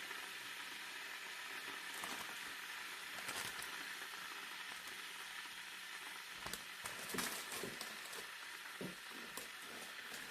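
Steady sizzling hiss, with a few light clicks and knocks about six to eight seconds in.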